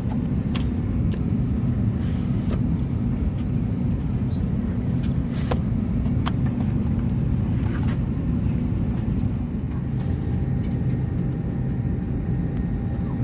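Steady low hum of an Airbus A320's cabin at the gate, the air-conditioning running, with a few scattered clicks and knocks from passengers settling in.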